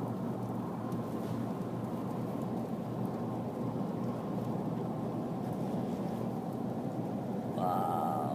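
Steady drone of engine, tyres and rushing wind heard from inside a moving car driving through a windy snowstorm.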